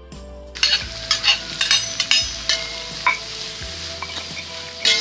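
Small anchovies (teri) frying in hot oil in a pan: a steady sizzle that starts about half a second in, with a spatula clicking and scraping against the pan as they are stirred.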